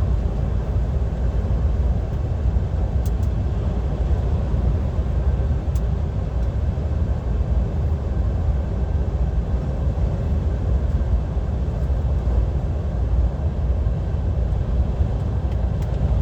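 Steady drone of a DAF XF 530 lorry at motorway speed, engine and road noise heard inside the cab, low and even throughout.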